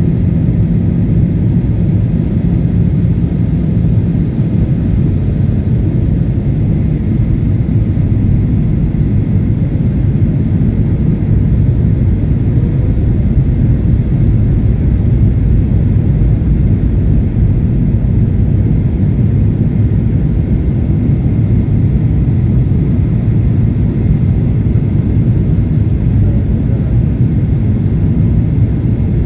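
Steady low rumble of a Batik Air jet airliner's engines and airflow, unchanging throughout.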